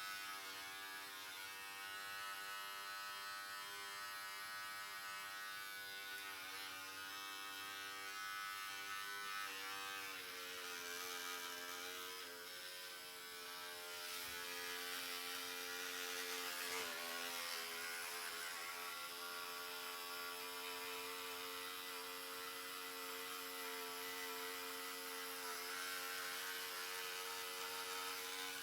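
Electric hair clippers buzzing steadily as they cut hair, their pitch shifting slightly lower about ten seconds in.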